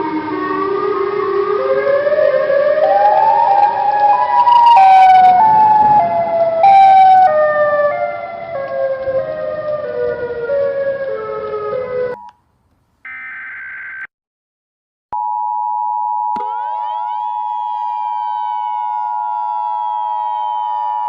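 Electronic emergency-alert tones. A stepped sequence of synthesized tones climbs and then steps back down for about twelve seconds and cuts off abruptly. After a brief buzzing burst and a pause, a steady two-tone alarm of the kind used as the EAS attention signal starts, with further tones sweeping up and then gliding slowly down over it.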